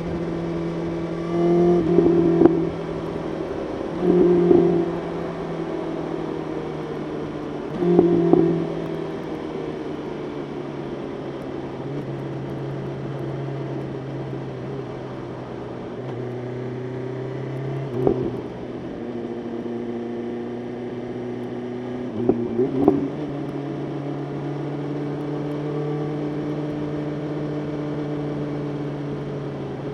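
BMW S1000RR inline-four engine running at highway speed, recorded on the bike over a steady rush of wind. There are short louder surges in the first eight seconds and two brief ones later, and the engine note settles a little lower about ten seconds in.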